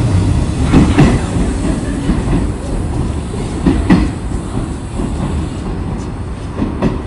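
JR 201 series electric train pulling slowly away from a station platform: a low rumble that slowly fades, with wheels knocking over rail joints three times about three seconds apart.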